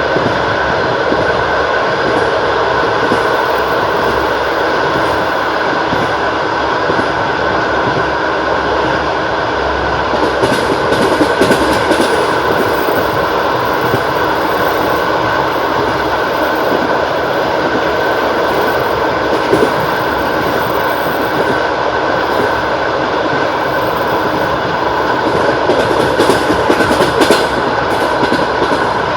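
Wheels of a long-distance passenger train clattering over the rails at running speed: a steady, loud rolling noise with knocks from the wheels, a little louder about a third of the way in and again near the end.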